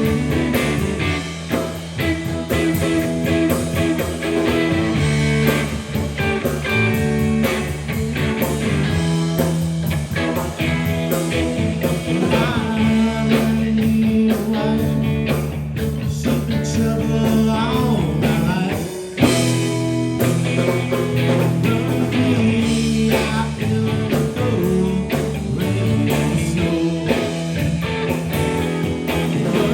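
Live blues-rock band playing, with electric guitar over bass and drums.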